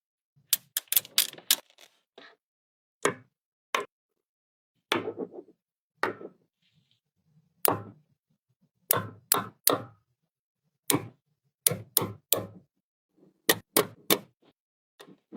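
Magnetic building pieces snapping together and clacking against each other as a model truck is assembled: sharp clicks with a short ring, single and in quick clusters of two to four, at an irregular pace.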